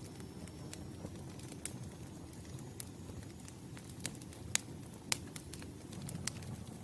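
Campfire crackling: a steady low rush of burning wood with irregular sharp snaps, two louder pops a little past the middle.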